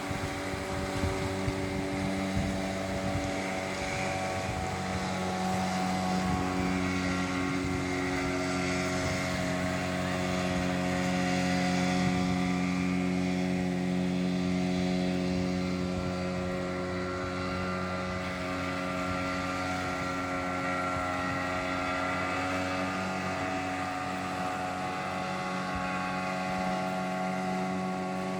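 Motorboat engine running steadily, its pitch shifting slightly a couple of times.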